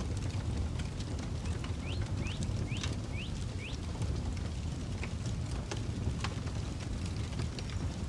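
Campfire crackling with scattered sharp pops over a steady low rumble of wind. About two seconds in, a bird gives a run of five quick rising notes.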